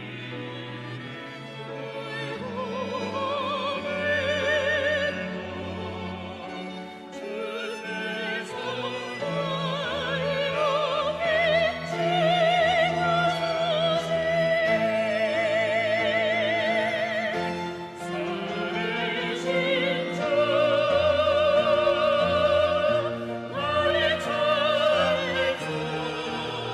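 Classically trained solo voices singing a slow hymn with wide vibrato over a string ensemble accompaniment, swelling louder from a few seconds in.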